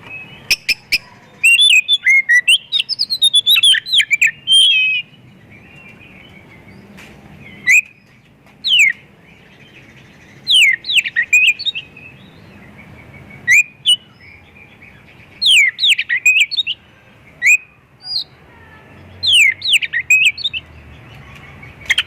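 Oriental magpie-robin singing hard, loud whistles and chirps mixed with imitated calls of other birds. A fast, busy run comes in the first few seconds, then short separate phrases of mostly falling whistles every second or two.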